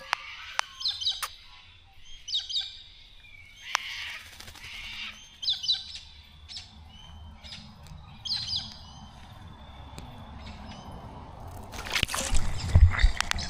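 Small birds chirping and calling with short, scattered high chirps, and a louder burst of noise near the end.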